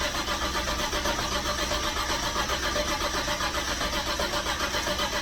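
Starter motor cranking the Mustang GT's turbocharged 5.0 V8 in an even, rapid rhythm without it catching, on a first start attempt on E85.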